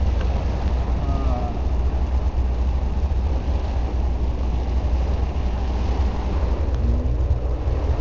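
Steady low rumble of a car driving in heavy rain, heard from inside the cabin, with an even hiss of rain and wet road noise over it.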